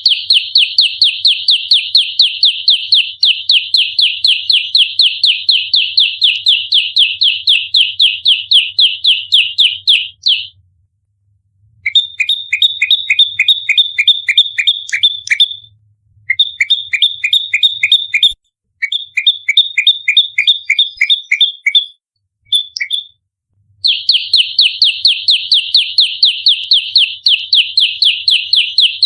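Prenjak lumut songbird giving its rapid fighting call, a fast string of sharp high chirps at about seven a second. It sings in long unbroken runs, then in shorter bursts of two-note chirps separated by brief pauses.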